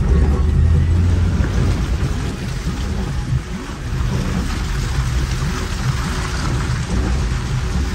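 Maruti Gypsy's engine running as it drives slowly along a wet lane, a steady low drone that is strongest in the first second or so. Heavy rain and wet-road noise hiss over it.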